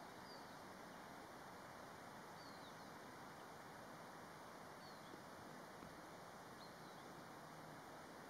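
Near silence: faint steady outdoor hiss, with about four faint, short, high bird chirps falling in pitch, spaced a couple of seconds apart.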